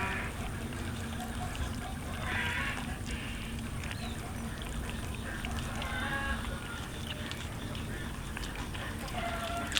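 Cats meowing, a few short calls around the middle and near the end, over a steady low hum.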